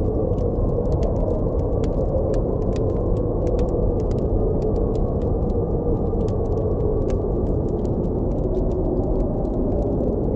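Blizzard wind blowing steadily with a low, slowly wavering howl, over a campfire crackling with many small, sharp, irregular pops.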